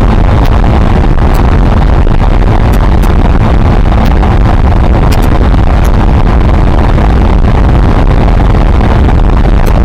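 Suzuki Marauder 125's single-cylinder four-stroke engine running steadily through its stock exhaust while riding at speed, heard under heavy wind rush on the microphone.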